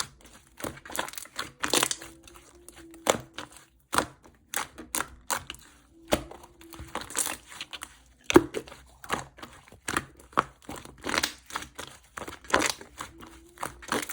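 Slime being squished and pressed by hand, making irregular crackling and popping clicks.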